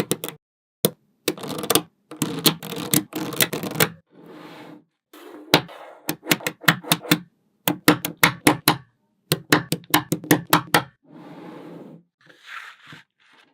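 Small magnetic balls snapping and clicking together as they are placed and built up, in clusters of rapid sharp clicks, with a few short stretches of softer rattling between.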